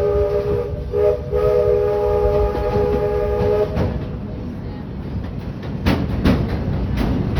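Steam locomotive whistle of the Walt Disney World Railroad blowing a long chord, broken briefly about a second in and stopping a little before four seconds in. After it comes the steady rumble of the moving train, with a few sharp clicks of wheels over rail joints near the end.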